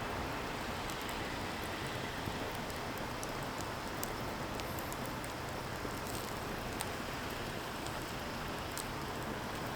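Firewood burning: a steady rushing hiss with small crackles and pops scattered irregularly throughout.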